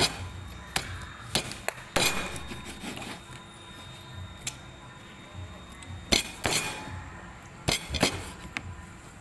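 Tableware clinking during a meal: about a dozen sharp, irregular clinks and knocks of utensils against bowls and plates.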